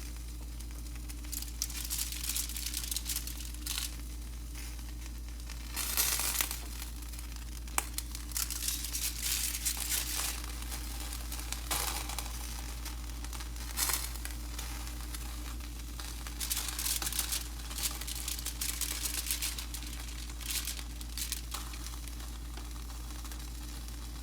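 Intermittent crinkling and rustling in irregular bursts of a second or two, with a few sharp clicks, over a steady low hum.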